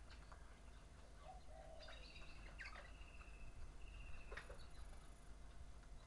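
Faint calls of wild birds: a few short chirps and whistles, with two longer held whistles about two and four seconds in, over a steady low background rumble.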